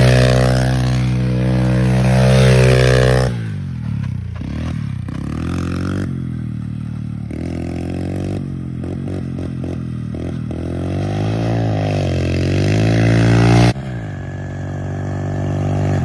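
Pit bike engine running hard, held at high revs, then dropping and rising in pitch again and again as the throttle is worked. The sound changes abruptly about three seconds in and again near the end.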